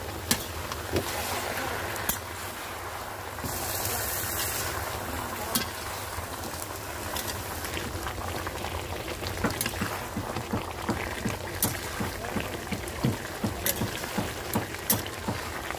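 Chicken curry with potatoes sizzling in a metal kadai while a metal spatula stirs it, scraping and knocking against the pan. A louder spell of sizzling comes about four seconds in, and in the second half the spatula knocks come about three a second.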